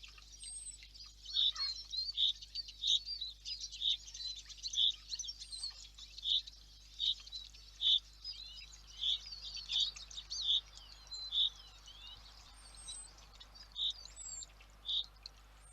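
Small songbirds chirping and twittering together, with one short call note repeated about once a second, pausing briefly near the end.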